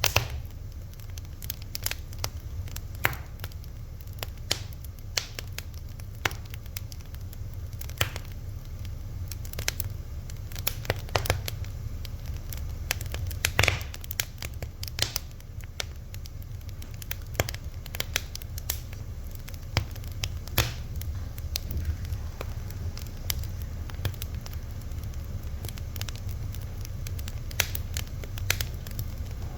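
Fire crackling, with irregular sharp pops and snaps of varying loudness over a low steady rumble.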